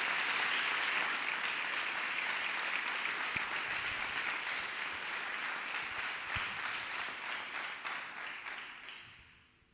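A congregation applauding, steady at first and dying away over the last couple of seconds.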